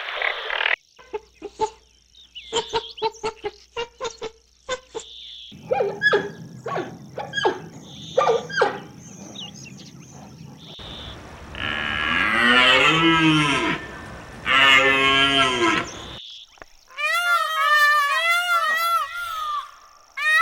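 A sequence of animal calls: short clicks and chirps in the first half, then two long, low calls with a bending pitch, then a run of quick rising-and-falling calls near the end.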